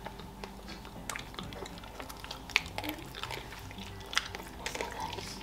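Close-miked mouth sounds of someone eating a strawberry cream tartlet: soft, wet chewing clicks and smacks, scattered and quiet, with a few sharper clicks, the loudest about two and a half seconds in.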